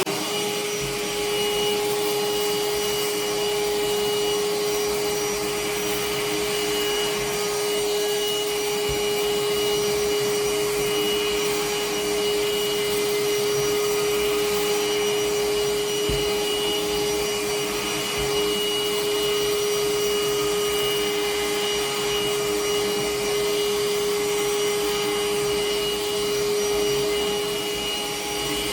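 Parkside PHSSA 20 Li C1 20V cordless handheld vacuum cleaner switched on and running steadily, a constant whine over a broad rush of air, while it sucks up dry kitchen scraps such as lentils, rice and cornflakes.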